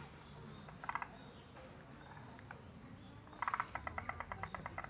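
A frog calling: a short burst of rapid rattling pulses about a second in, then a longer pulsed run near the end at about ten pulses a second.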